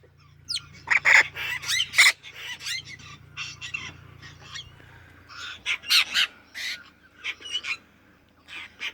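Apostlebirds and an Australian king parrot calling: a busy run of short, harsh, rasping calls, some with brief whistled glides, loudest about a second in and again around six seconds in.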